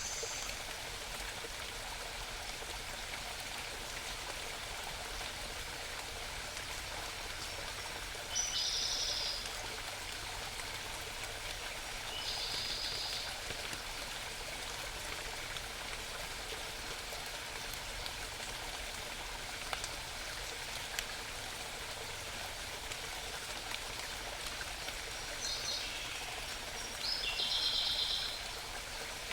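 Mountain stream babbling steadily, with a small bird singing several short, high-pitched phrases over it, the last two near the end.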